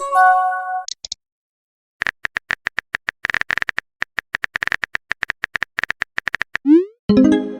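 Phone chat sound effects: a short message chime, then a run of rapid keyboard typing clicks, a quick rising swoop as the message is sent, and another chime near the end.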